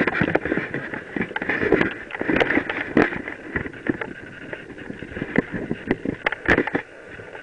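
Mountain bike rolling over a rough dirt trail: a steady rush of tyres and wind with many sharp knocks and rattles as the bike hits bumps.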